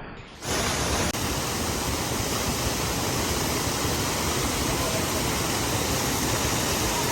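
Waterfall's rushing water, a steady even noise close to the microphone, cutting in abruptly about half a second in.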